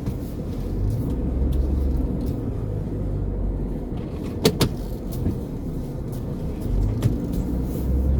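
Car cabin noise while driving: a steady low rumble of engine and road, with a sharp click about halfway through.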